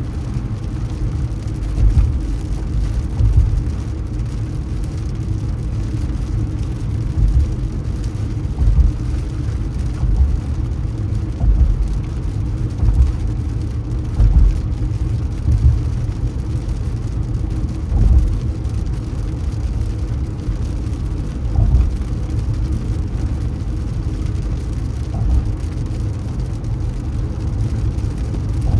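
Steady low rumble of a car driving through city streets, with road and engine noise and occasional short low thumps.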